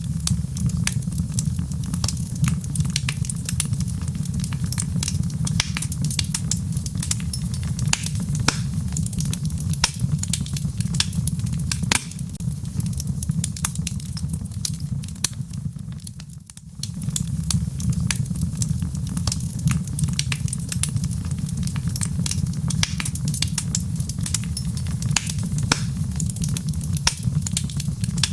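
Wood logs burning in a fireplace: a steady low roar of the flames with frequent sharp crackles and pops. The sound briefly drops away about halfway through, then resumes.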